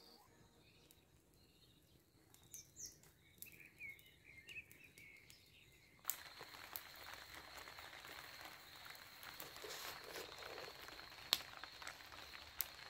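Faint outdoor ambience with a few short bird chirps. About six seconds in, the background changes suddenly to a louder hiss with a steady thin high tone and scattered clicks.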